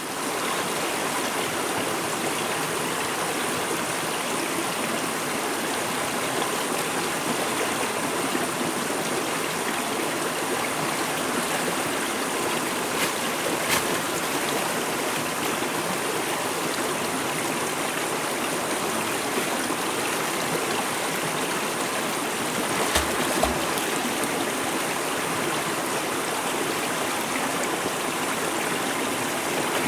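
Forest stream running steadily, a constant rush of flowing water. There are a few short knocks about halfway through and again around three quarters of the way in.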